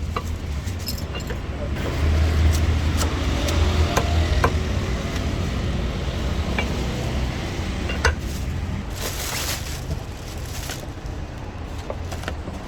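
Street background of traffic with a steady low rumble, with scattered light clicks and clinks and a short hiss about nine seconds in.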